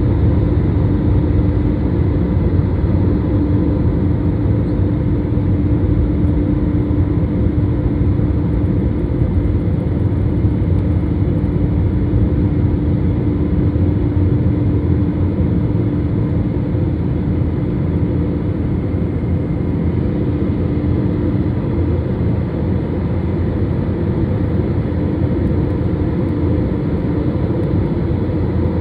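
Jet airliner engines and airflow heard inside the cabin as a loud, steady drone with a constant hum, typical of the climb after takeoff.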